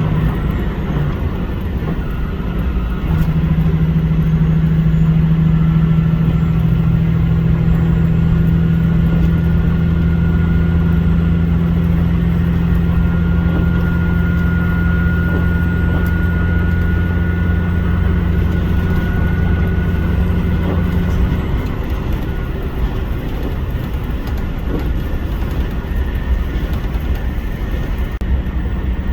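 HOT7000 series diesel railcar running. A steady low engine drone holds from a few seconds in until about two-thirds of the way through, then eases off, over ongoing running noise. A faint higher whine rises slowly in pitch during the loud stretch.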